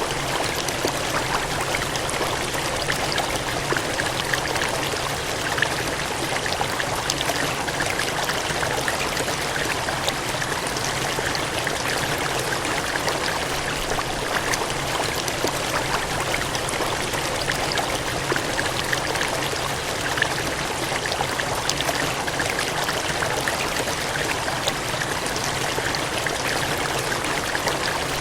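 Cascading water gushing steadily: a dense, even rush with fine splashing in it.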